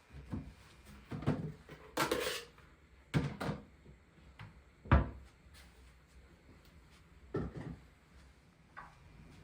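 Kitchen handling sounds: a string of knocks and clunks as things are moved and set down, with a brief rustle about two seconds in and the sharpest knock about five seconds in.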